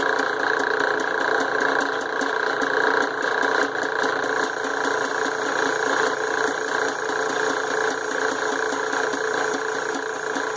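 A power tool's electric motor running steadily under load as it works a steel billet, with a constant whine of several held tones over a grinding noise.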